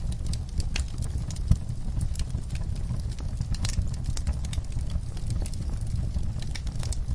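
Wood fire crackling in a fireplace: scattered sharp pops and snaps over a steady low rumble of flames, with one louder pop about a second and a half in.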